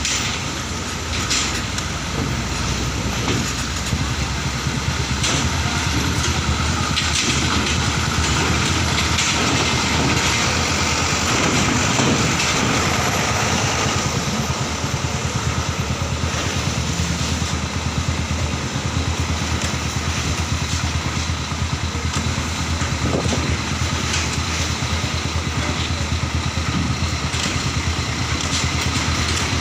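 Heavy diesel trucks' engines running, a steady low rumble with a constant background drone.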